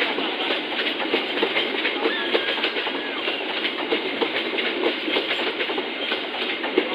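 A train rolling past, its wheels making a steady clatter on the rails with many small clicks.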